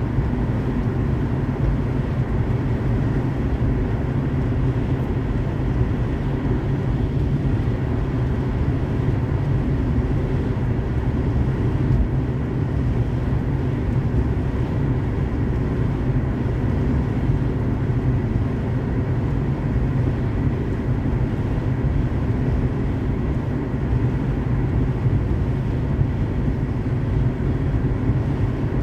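Steady road noise of a car driving on a highway: an even, low rumble that does not change.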